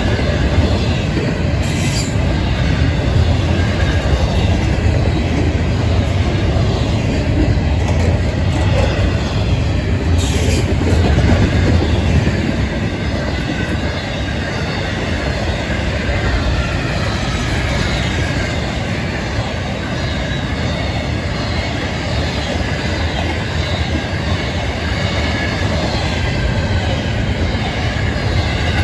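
Freight train's intermodal well cars rolling steadily past on the rails, a loud continuous rumble with high-pitched wheel squeal over it and a couple of sharp clicks from the wheels.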